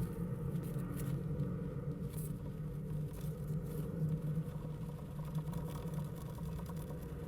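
Steady low hum with faint scattered scratches and light taps.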